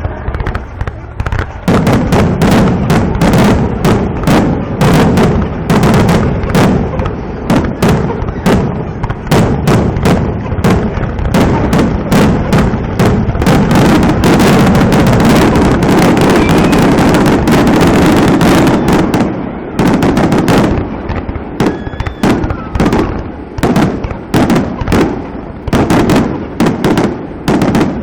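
Fireworks going off in a dense, rapid barrage of bangs and crackles, starting about two seconds in and thinning out somewhat near the end.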